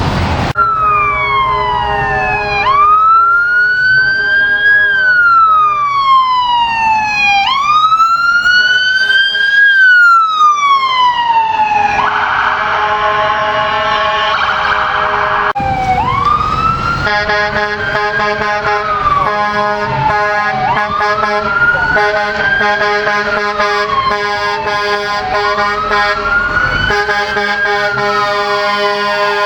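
Emergency vehicle siren wailing, its pitch rising and falling slowly every few seconds. A steady blare joins in about twelve seconds in, and after an abrupt change the wail carries on over a dense set of steady tones.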